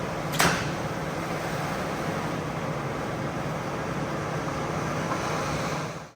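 A cleaning machine running steadily with a low hum, with a short, loud hiss about half a second in. The sound cuts off abruptly at the very end.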